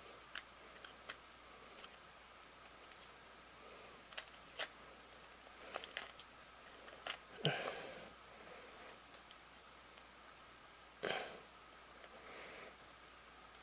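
Faint scattered clicks and small knocks of hands working on a VHS cassette and its tape during a splice repair, with two short louder rustles, about seven and eleven seconds in.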